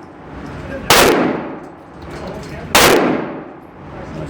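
Two gunshots at a shooting range, about two seconds apart, each with a long echoing tail.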